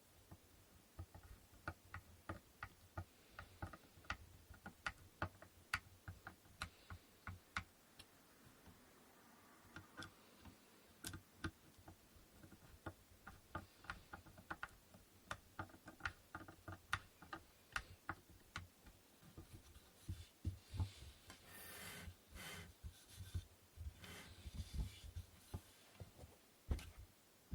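Faint, irregular light clicks and taps of wooden inkle loom parts being handled and fitted together, several a second, with a few short rubbing sounds near the end.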